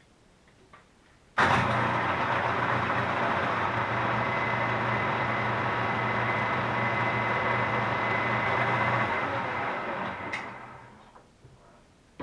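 Milling machine spindle switched on about a second in. It runs steadily with a hum and a thin high whine, then is switched off near the end and winds down to a stop, followed by a click.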